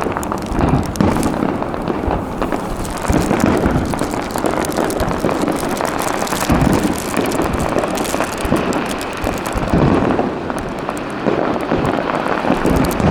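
Aerial fireworks going off: repeated deep booms of shells bursting every second or two, over a continuous crackle.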